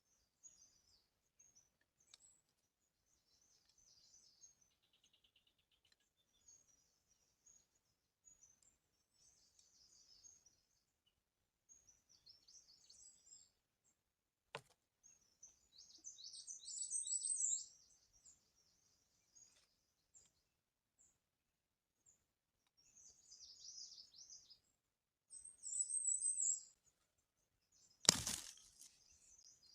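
Small birds chirping and twittering in repeated high, rapid phrases, loudest about halfway through and again near the end. A sharp click sounds about halfway, and a short, louder knock comes near the end.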